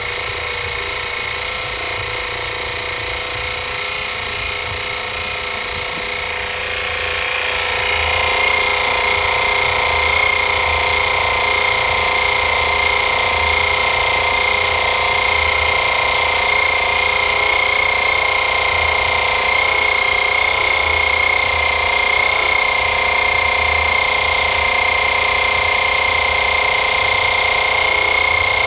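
Kensun YS-205 portable air compressor running steadily while it inflates a car tyre that was a little under 30 psi; about seven seconds in it grows louder, with a high steady whine, and then holds even.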